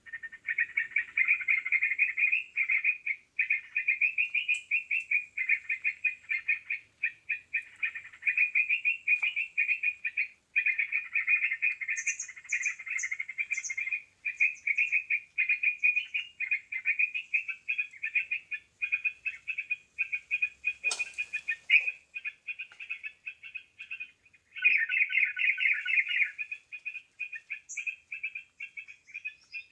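Sooty-headed bulbul (trucukan) lure call played through a Bluetooth speaker: dense, rapid chattering bird calls, nearly continuous with brief pauses. A single sharp click comes about two-thirds of the way through.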